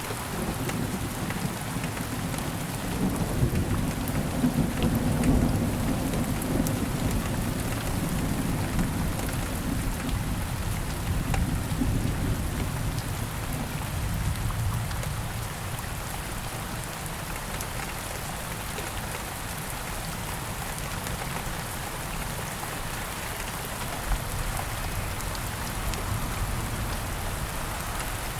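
Steady rain falling, with a long low roll of thunder that swells a few seconds in and dies away about halfway through.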